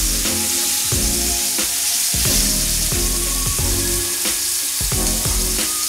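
Beef steak and garlic cloves sizzling in hot oil in a grill pan. Background music with a steady beat plays over the sizzle.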